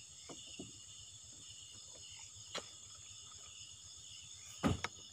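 Steady night chorus of crickets and other insects, with a few short knocks and a louder thump near the end.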